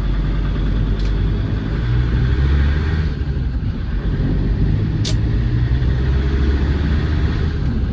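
Land Rover Defender 110 Td5's five-cylinder turbodiesel running warm while the vehicle is under way, heard from inside the cab as a steady low rumble mixed with road noise. A sharp click comes about five seconds in.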